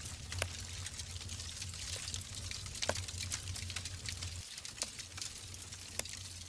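Wood fire burning in a fireplace: a steady hiss with frequent sharp crackles and pops from the burning logs, a few louder pops standing out, over a low steady rumble.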